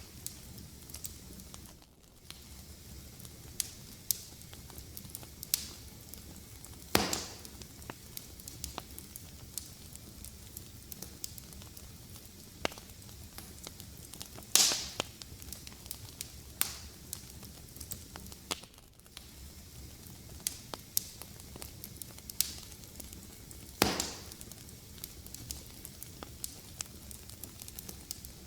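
Wood fire crackling in a fireplace: a steady low hiss with frequent small sharp snaps, and three louder pops spaced several seconds apart.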